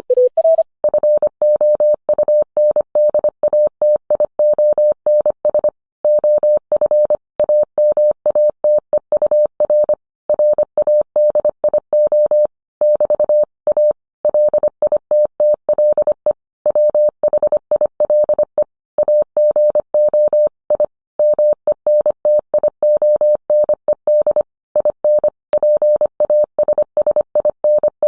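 Morse code: a steady mid-pitched tone keyed on and off in a run of short dots and longer dashes, with brief gaps between letters and words.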